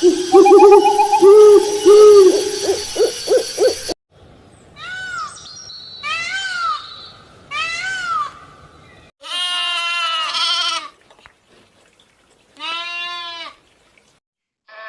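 A string of separate animal-call clips cut together. First come repeated loud pitched calls for about four seconds. After a cut comes a run of short calls that rise and fall in pitch, then two longer wavering calls with gaps of silence between.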